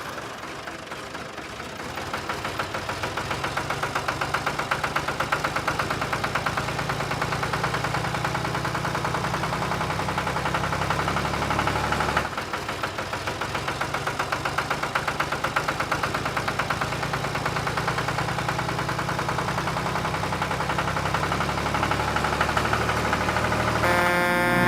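Tractor engine chugging at a steady idle with an even pulsing beat. It breaks off briefly about 12 seconds in and then runs on.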